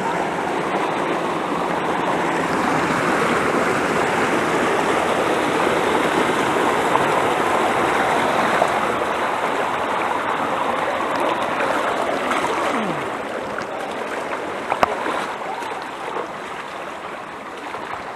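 Steady rush of water in a rocky mountain stream, easing off a little after about twelve seconds, with a single sharp knock about fifteen seconds in.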